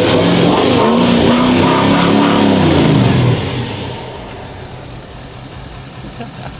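Ford Super Duty pickup's engine, on an aftermarket performance tune, revved hard: loud from the start, climbing in pitch and falling back over about three seconds, then dropping to a quieter idle.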